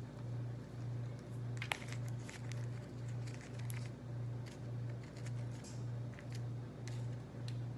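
Light clicks and rustles of thin peeled carrot strips being handled and dropped into a small container, with one sharper click about a second and a half in. Under them runs a low hum that pulses about twice a second.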